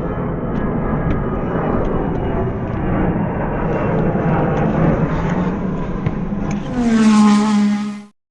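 Exhaust of a 2020 Dodge Charger with its muffler deleted, running with a deep rumble; near the end the engine revs up, rising in pitch, then the sound cuts off abruptly.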